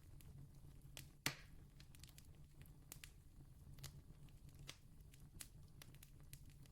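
Campfire crackling faintly: scattered soft snaps and pops, with one louder pop a little over a second in, over a low steady rumble.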